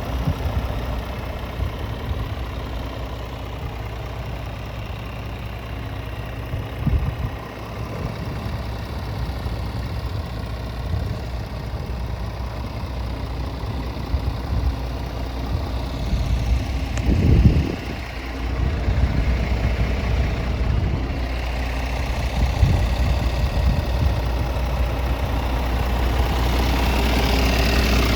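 Scania S450's 13-litre six-cylinder diesel engine idling steadily, with a few brief thumps, the loudest about seventeen seconds in.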